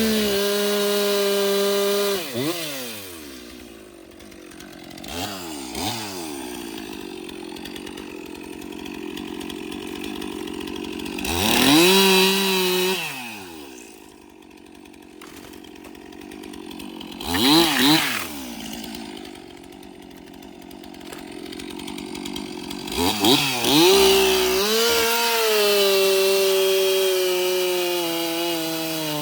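Gas chainsaw bucking logs: the engine revs up to full throttle and drops back to idle several times, with short full-throttle runs at the start and about 12 and 18 seconds in, and a longer run near the end.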